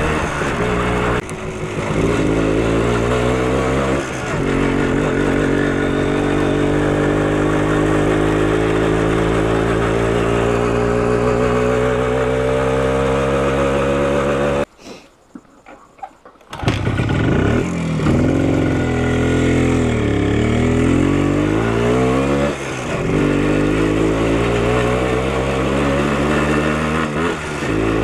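Minsk motorcycle's single-cylinder two-stroke engine running on the move, its pitch climbing slowly as it pulls and dipping briefly at gear changes. The sound cuts out for about two seconds midway, then the revs rise and fall again.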